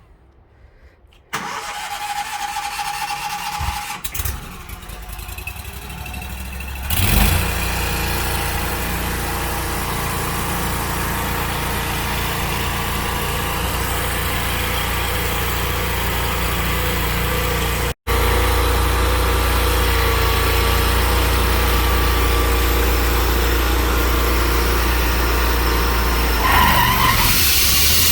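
An engine starts about a second in and runs unevenly at first. From about seven seconds it settles into a steady, louder run with a strong low hum. It cuts out for an instant near the middle, and its sound shifts shortly before the end.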